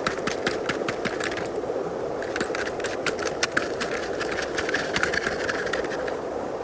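Small electric gear motors of a remote-controlled construction model (excavator or tractor truck) running with a fast, rattling clicking, over a steady rushing hiss. The clicking pauses briefly about a second and a half in, then resumes.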